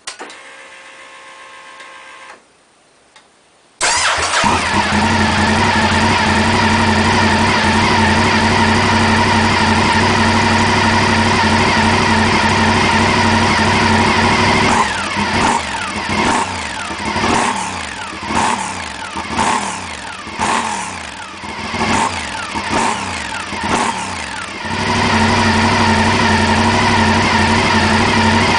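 Mondial Piega 1000 sportbike's Honda-built 1000 cc V-twin starting: a brief electric whine, a short pause, then the engine catches about four seconds in and settles into a steady idle. Through the middle it is given a series of short throttle blips, the revs rising and falling about ten times, before it drops back to idle.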